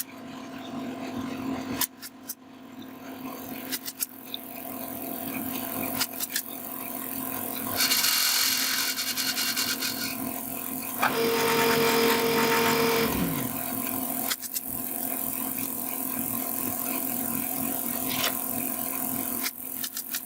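Woodworking sounds: a small power tool runs in two short bursts, the second winding down in pitch as it stops, among scattered taps and a steady scraping on wood.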